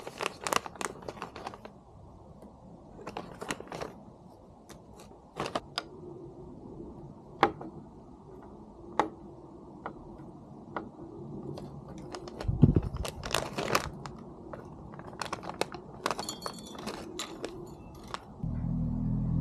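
Scattered small clicks, taps and clinks of kintsugi kit items being handled and set down on a table, with a low thump about two-thirds of the way through. Near the end a loud, low, steady rumble comes in.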